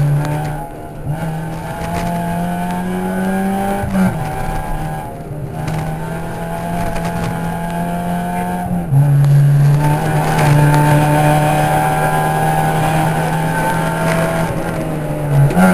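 Ford Puma rally car's engine heard from inside the cabin at full stage pace, the revs climbing and then dropping sharply with gear changes about four, nine and fifteen seconds in.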